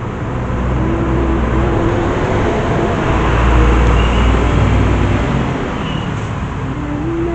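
Road vehicle noise: a steady engine and road rumble, growing a little louder about halfway through.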